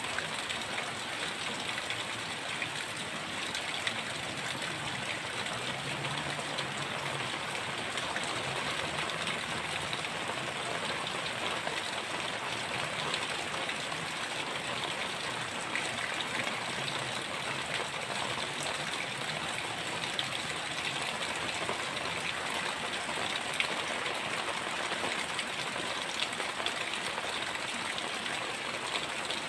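Heavy rain falling steadily: a dense, even hiss of water with many small drop ticks.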